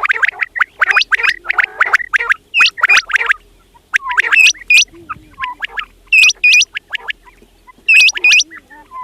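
Quails calling. A dense run of rapid chirps fills the first two seconds, then loud, ringing calls come in short groups of two or three, about every two seconds.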